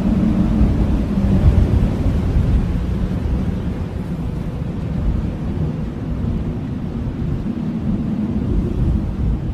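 Blizzard wind howling: a steady low rush with a wavering moaning tone, swelling in gusts, strongest a second or two in.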